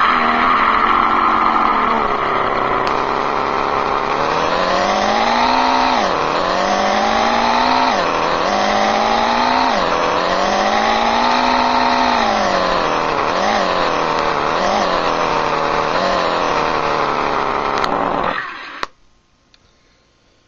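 Late-model Ferrari engine sound played back from an RC car sound unit through a speaker. It revs up and down several times, with quick pitch drops between rises, and cuts off about 18 seconds in.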